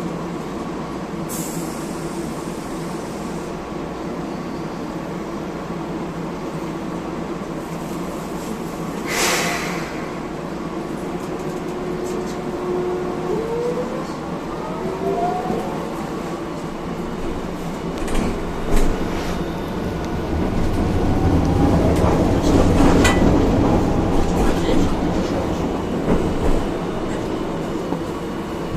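Hiroden 1000-series low-floor tram running, heard inside the car: the Toyo Denki IGBT inverter and traction motors whine, their pitch gliding upward about 12 to 15 seconds in, over steady wheel-and-rail noise that grows loudest a little past the middle. A brief hiss comes about nine seconds in.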